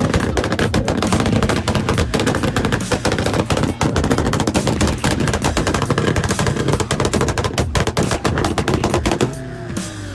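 Car exhaust cracking and popping in a rapid, continuous string of sharp bangs, like an engine held against a two-step or rev limiter, cutting off about nine seconds in.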